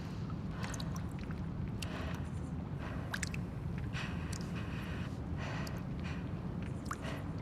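Abandoned-building ambience: a steady low rumble, with brief airy gusts and sharp ticks and drips scattered about every second.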